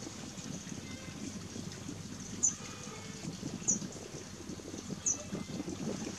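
A small bird's short, high call note, falling slightly in pitch, repeated three times about every second and a half, over a low steady rumble.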